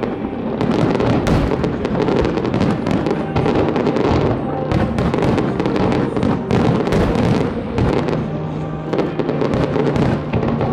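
Fireworks going off in a dense barrage, many bangs and crackles overlapping with no pause, while music plays underneath.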